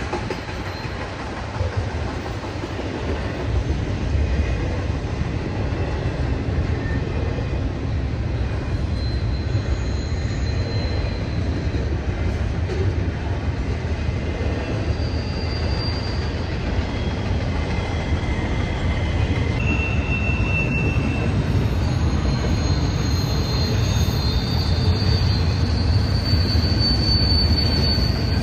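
Norfolk Southern freight train rolling past, a steady low rumble of wheels on rail. Thin high wheel squeals come and go, more of them toward the end.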